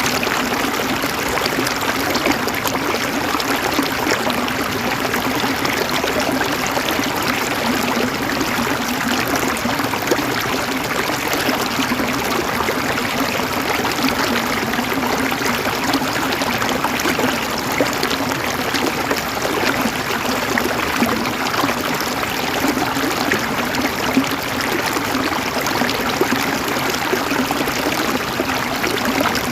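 Flowing water, an even, steady rushing and trickling with no breaks.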